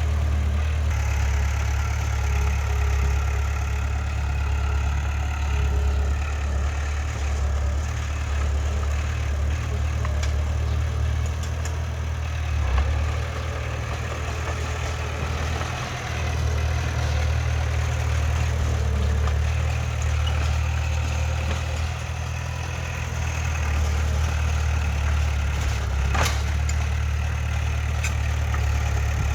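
Heavy diesel engine of earthmoving machinery running steadily with a deep hum, dipping in level briefly twice. A single sharp clank of metal sounds late on.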